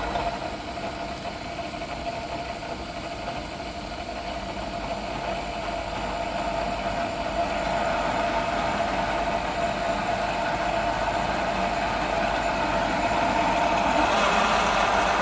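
Milling machine drilling a 22 mm hole into thick high-tensile steel plate: a steady machine noise with a constant whine, growing slowly louder.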